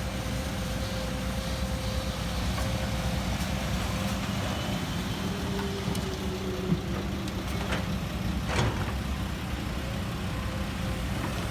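Heavy diesel engine running steadily, with a couple of short knocks in the second half.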